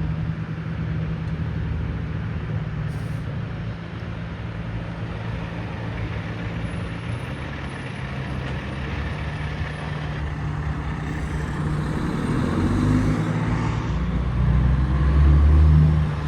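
Heavy vehicle engines running, a steady low rumble that grows louder over the last few seconds.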